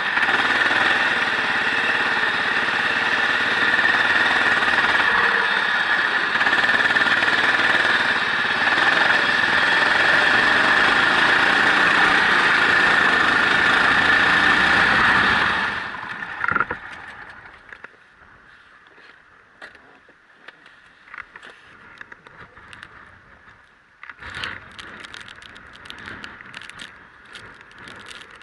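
Racing vehicle's engine running hard at track speed, heard onboard. It cuts away suddenly about two-thirds of the way through, leaving a low background with faint, irregular ticks.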